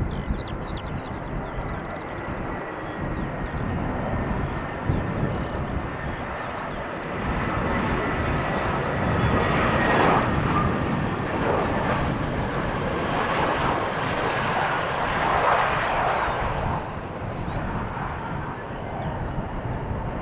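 Jet airliner's engines passing, the roar building to its loudest about halfway through and again a little later, then easing off near the end, with a thin high whine that slowly drops in pitch.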